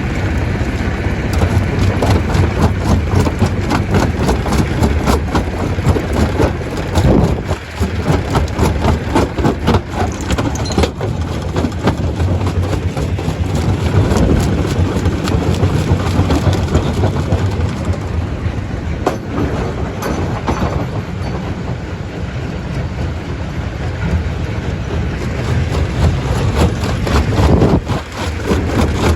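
Stone crusher machine running with a steady low hum while rocks knock and clatter through it without a break.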